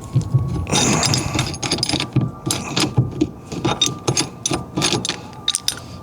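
Hand tools working on a car's steering column parts: irregular metallic clicking and rattling, several sharp clicks close together.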